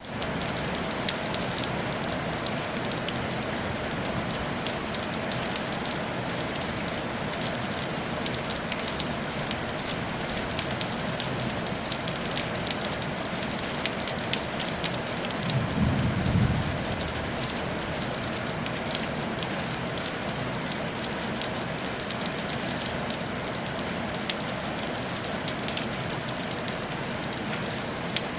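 Steady rain falling on a tile roof, a dense hiss of many small drop ticks. About halfway through, a short low rumble lasting about a second rises above the rain.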